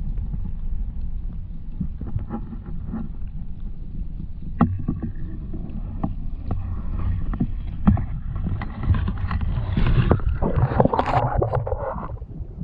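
Muffled water sloshing and knocking around a camera microphone held underwater in a lake, with a louder, splashier stretch near the end.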